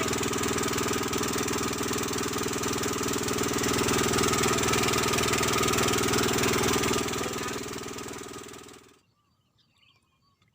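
An engine running steadily. It sinks away near the end and cuts off just before the last two seconds, leaving faint bird chirps.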